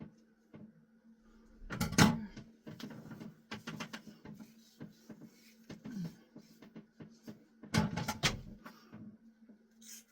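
Scissors snipping through hair, with handling clicks and rustles. The snips come in two loud flurries, about two seconds in and again near eight seconds, over a faint steady hum.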